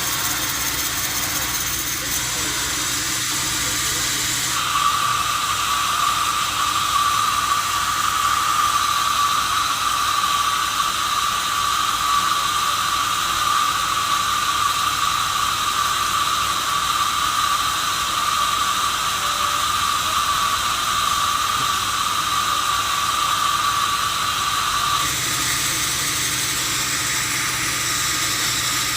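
Sawmill saw running, then cutting through a log for about twenty seconds: a steady high whine over loud hiss starts abruptly about five seconds in and stops abruptly about four seconds before the end, when the blade runs free again.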